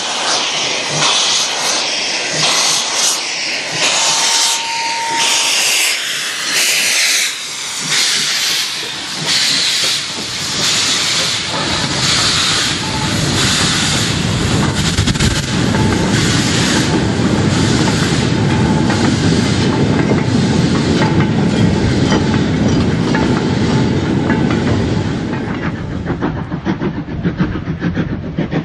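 Steam locomotive working under load, its exhaust beating out regular chuffs of hissing steam. From about twelve seconds in, the heavier, continuous noise of the train rolling past builds up.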